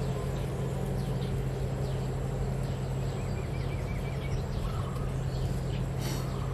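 Small birds chirping outdoors over a steady low hum, with a quick trill of about six repeated notes around three seconds in. A brief knock near the end.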